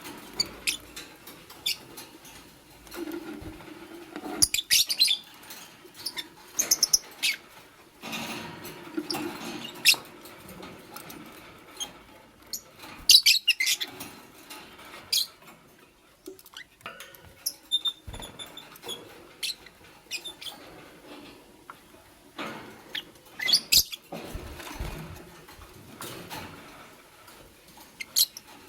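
Fischer's lovebirds chirping in clusters of short, high, squeaky notes, with clicks and rustling in between.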